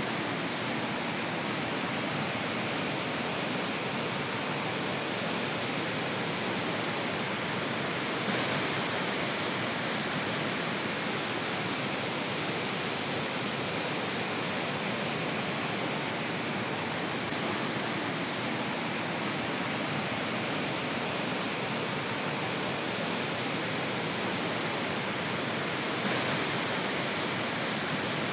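Jog Falls waterfall in full flow: a steady, unbroken rush of falling water.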